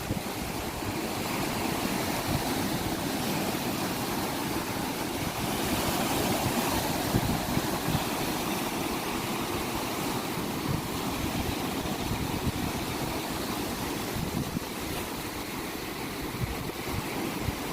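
Steady rush of sea waves and surf, with wind buffeting the microphone throughout.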